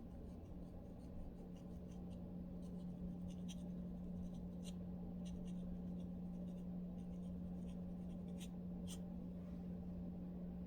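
Close-up scratching of a dry, flaky scalp with dandruff: short, irregular scraping strokes through the hair, over a steady low hum.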